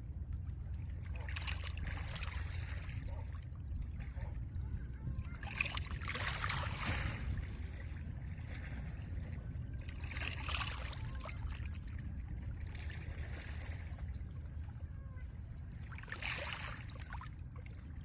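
Small lake waves washing onto a pebble shore: a hissing wash of water over stones returns about every four to five seconds, over a steady low rumble of wind and surf.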